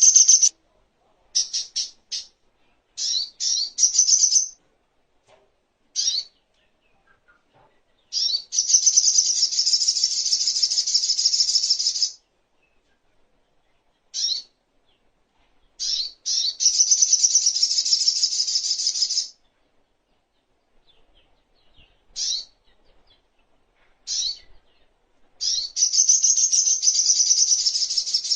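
Sogok ontong (songon), a spiderhunter, singing in a high pitch. Short sharp call notes come between three long, rapid, chattering song phrases of a few seconds each.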